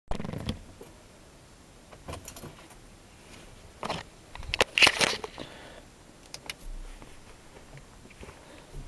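Scattered short clicks and rattles, loudest in a cluster about five seconds in, with no music playing yet.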